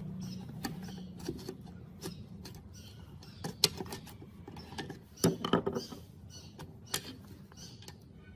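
Irregular clicks and knocks of hand tools and small metal parts being handled, with a brief scraping cluster a little past halfway.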